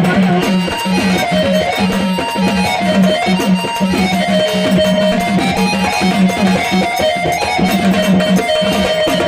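Instrumental interlude of Marathi folk song accompaniment: a plucked-string melody over a held low note and a steady drum beat, with no singing.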